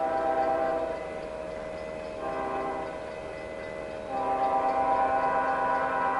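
Diesel locomotive's air horn sounding its grade-crossing signal in chords of several notes: a blast ending about a second in, a short toot about two seconds in, then a long blast from about four seconds on.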